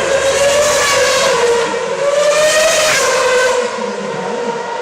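2009 Formula One cars' 2.4-litre V8 engines running at high revs on the circuit, their whine gliding up and down in pitch as cars pass and shift. The pitch and level fall sharply about three and a half seconds in.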